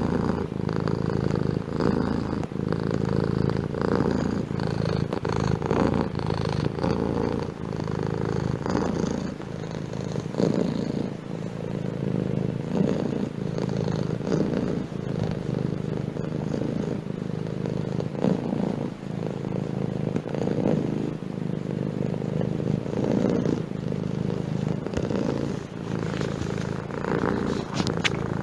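Domestic cat purring steadily, the purr swelling and easing in a slow rhythm every couple of seconds with its breathing.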